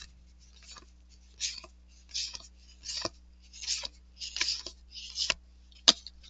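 Cardboard trading cards being flipped through one at a time, each card sliding off the stack with a short scrape and snap, about nine in steady succession.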